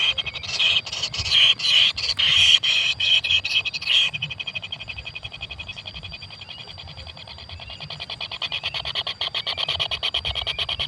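Kingfisher nestlings begging in the nest burrow: a rapid, buzzing churr of fast pulses. Louder harsh bursts come in the first four seconds, then it settles into a steady fast churring that grows a little louder near the end.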